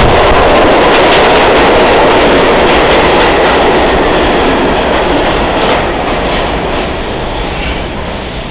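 R32 subway train running through the tunnel, a loud steady rail noise that gradually dies down over the last few seconds.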